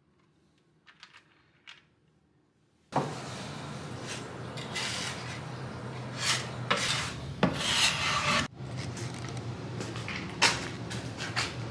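Something rubbing and scraping against wood in repeated uneven strokes, starting about three seconds in after a near-silent stretch with a few faint ticks.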